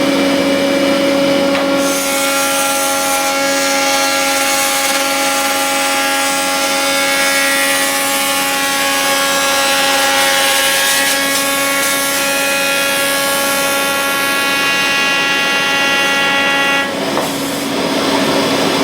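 Automatic machine for making wooden mallet handles running, with a steady motor hum. From about two seconds in, a higher steady whine and the noise of wood being machined join it, then stop about two seconds before the end.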